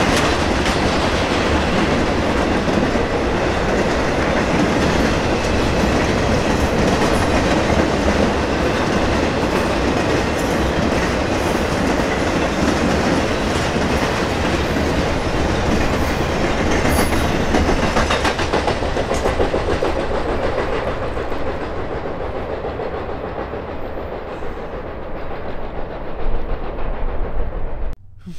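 A BNSF train rolling past: a steady rumble of wheels on rail with scattered clicks. It fades over the last several seconds, then cuts off suddenly.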